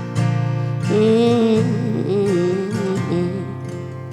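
Acoustic guitar strummed steadily while a woman's voice holds a wavering sung note with vibrato, starting about a second in and fading out past the three-second mark.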